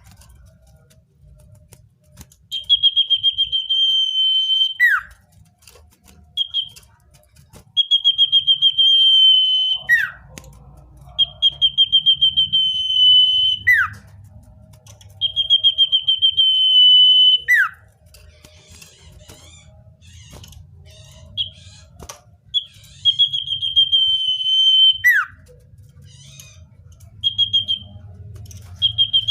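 Common iora singing: a long, slightly trilled whistle held on one high pitch for about two seconds, ending in a quick downward slur. The phrase repeats every four to five seconds, with short whistled notes between.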